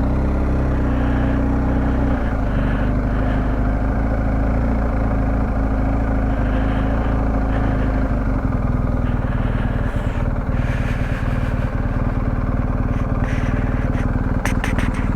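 Motorcycle engine running steadily at low revs, with a slight drop in pitch about two seconds in and a few clicks near the end.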